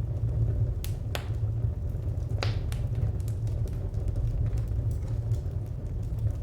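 Wood fire crackling: a steady low rumble with scattered sharp pops, the loudest about two and a half seconds in.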